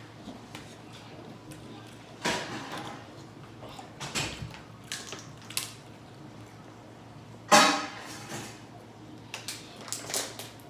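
Seafood shells and utensils being handled while eating: a scattering of short clicks and crackles, the loudest about seven and a half seconds in.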